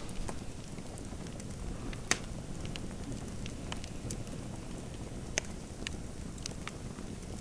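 Fireplace crackling: scattered sharp snaps and pops over a steady low rush, with two louder pops about two and five seconds in.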